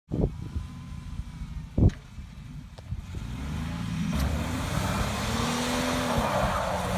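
Pickup truck's V6 engine revving up and down as it gets moving, with two heavy thumps in the first two seconds and a rushing noise building from about four seconds in.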